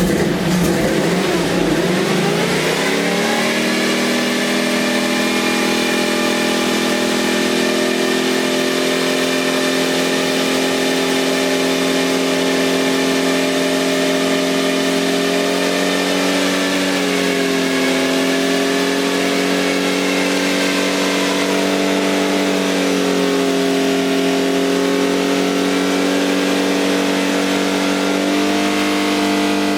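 Chevy C10 truck engine, just fired up, revving up over the first three seconds and then held steady at a raised speed, with slight dips and rises in pitch: the camshaft break-in run of the engine's new cam.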